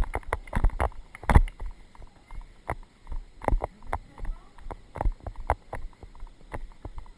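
A ridden horse moving on the arena surface: irregular thuds of its hooves, about one to two a second, with knocks from the jostled rider-mounted GoPro.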